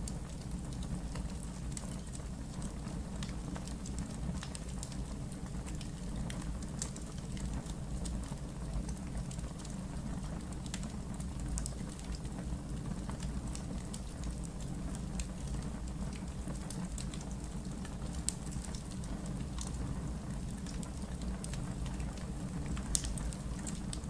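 Wood fire burning in a fireplace: irregular crackles and sharp pops over a steady low rumble of the flames, with one louder pop near the end.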